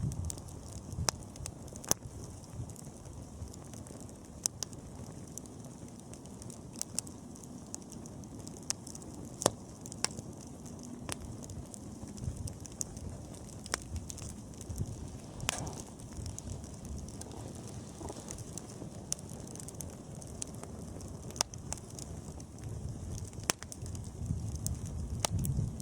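Wood campfire burning: a low steady rumble of flames with irregular sharp crackles and pops from the burning wood.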